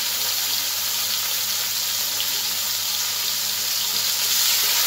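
Prawns frying in hot oil in a kadai (wok), a steady sizzle that grows a little louder near the end.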